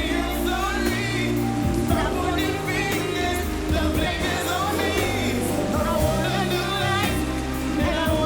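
An R&B ballad playing, with a voice singing long, gliding vocal runs over sustained bass notes and chords.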